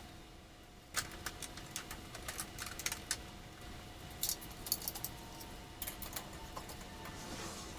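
Irregular light clicks and clinks of small metal parts and hand tools being handled, starting about a second in, over a faint steady hum.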